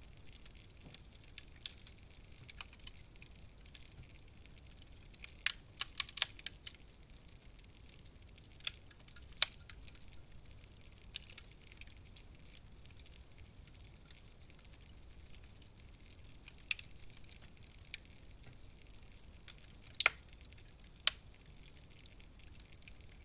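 Wood fire burning in a fireplace: a soft steady hiss with scattered sharp crackles and pops, a quick cluster of them about six seconds in and single loud pops near the middle and toward the end.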